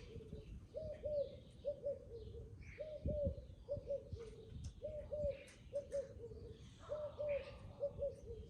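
A dove cooing, a multi-note phrase repeated about every two seconds, with other small birds chirping at a higher pitch.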